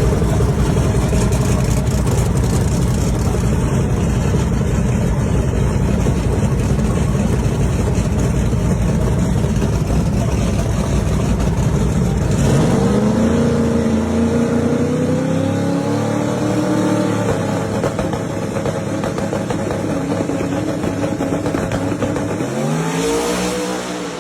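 Boosted full-size drag-racing truck engine at full throttle, loud and dense for about twelve seconds, then revving with its pitch climbing twice, about halfway through and again near the end.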